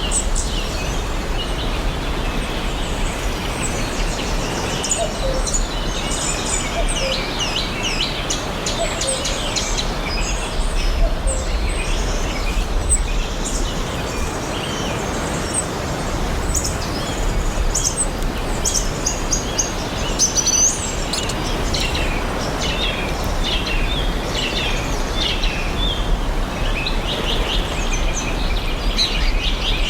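Several forest birds chirping and singing, with short high chirps and trills overlapping throughout, over a steady low background rumble.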